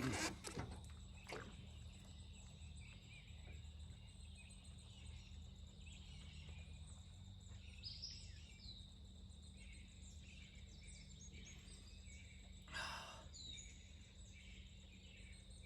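Quiet outdoor ambience: a steady low hum with faint bird chirps, a few soft clicks, and one short rustle about two-thirds of the way through.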